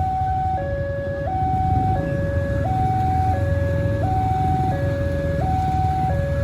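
Railway level-crossing warning alarm sounding, an electronic two-tone signal that alternates steadily between a lower and a higher tone, each held just under a second. A loud low rumble runs underneath.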